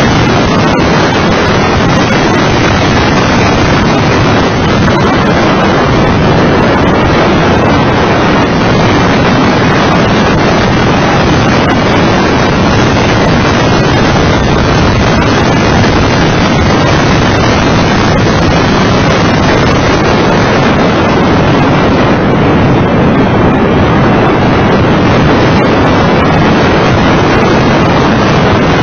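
Mitsubishi FTO GPX's 2.0-litre V6 running hard at track speed, mixed with heavy wind buffeting on the microphone. The result is a loud, steady noise with no distinct gear changes standing out.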